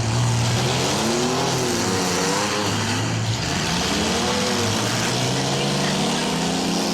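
Engines of several mini trucks and mini vans revving up and down, their pitches rising and falling and overlapping as they manoeuvre in a demolition derby.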